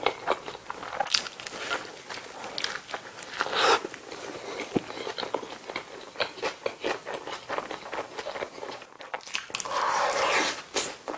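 Close-miked eating sounds of a McDonald's bulgogi burger: biting into the soft bun and lettuce and wet chewing, with many small mouth clicks and smacks. There are louder bites about four seconds in and again near the end, when a large mouthful is pushed in.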